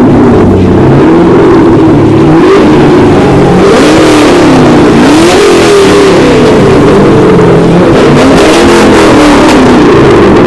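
Car engine revved again and again, the pitch climbing and falling back every second or so, very loud and close.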